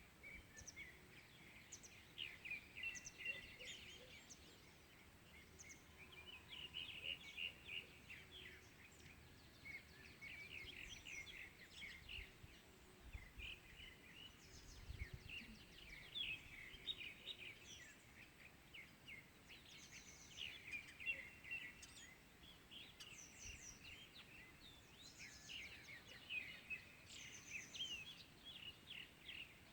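Early-morning chorus of several small songbirds, a dense, continuous run of quick chirps and short trills.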